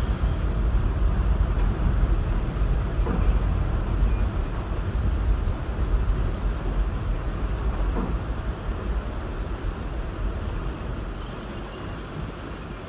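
Freight train hopper wagons rolling over a steel girder railway bridge: a steady low rumble with an occasional faint knock from the wheels, growing quieter near the end.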